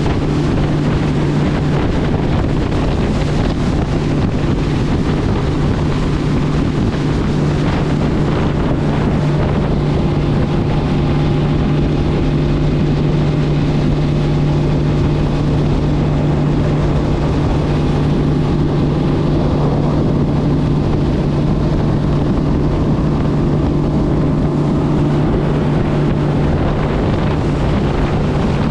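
Motorboat engine running steadily at cruising speed, a constant hum, with wind buffeting the microphone.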